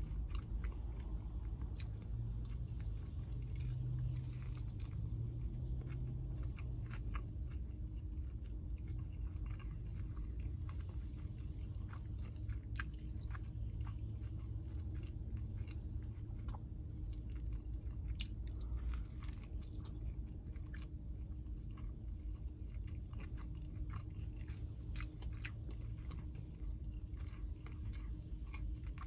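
A person chewing mouthfuls of a chicken sandwich with bacon and cheese, wet chewing with frequent small crunches, over a steady low hum.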